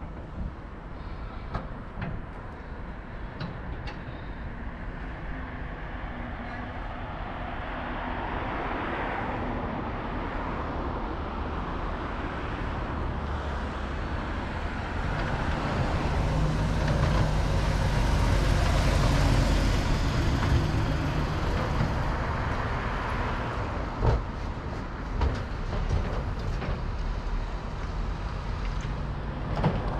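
Road traffic: a large motor vehicle passes close by, its engine hum and tyre noise growing to a peak about two-thirds of the way through and then fading. A couple of short knocks follow.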